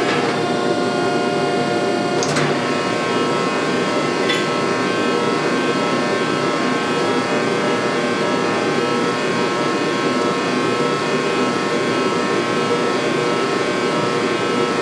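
Steady running of a shop machine, with a few sharp clicks in the first few seconds.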